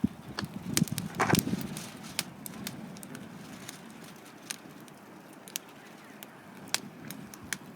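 Wood campfire crackling, with sharp, irregular pops scattered through, and a cluster of louder knocks in the first second and a half.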